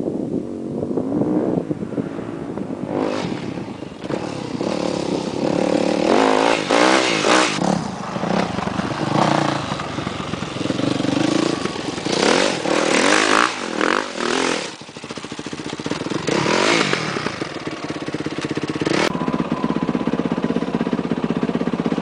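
Yamaha YZ250F four-stroke single-cylinder dirt bike engine being ridden, its revs surging up and falling back about five times, with rattling clatter between the surges.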